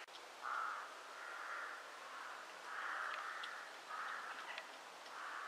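Outdoor birdsong: harsh, rasping bird calls repeated about once a second, each roughly half a second long, with a few faint short chirps in between.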